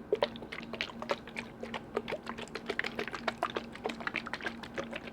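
Rapid, irregular tapping on hard objects, many quick taps a second, some with a slight ring of pitch, starting suddenly.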